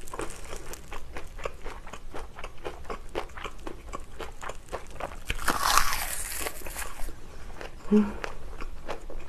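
Close-miked chewing of a mouthful of kimchi fried rice wrapped in raw laver, with many small wet crunches. There is a louder crunchy stretch about five and a half seconds in.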